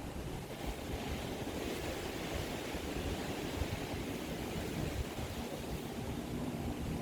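Strong wind buffeting the phone's microphone: a steady rushing with a low, uneven rumble.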